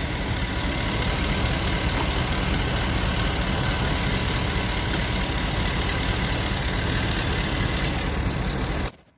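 Car engine idling steadily, its serpentine belt running without squeal now that the water pump pulley has been lubricated with silicone spray. The sound cuts off suddenly near the end.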